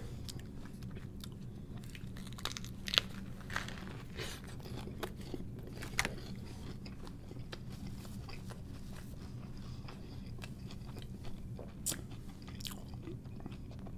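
A person biting and chewing a chicken burger close to the microphone, with scattered short crunches and mouth clicks, the loudest about three and six seconds in, over a steady low hum.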